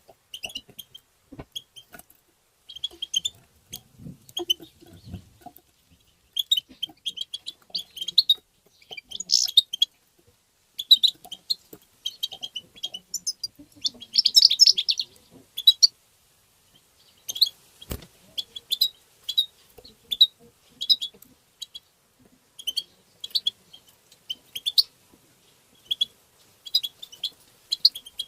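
European goldfinch twittering: quick, high chirping calls in short bursts, with brief pauses between the phrases.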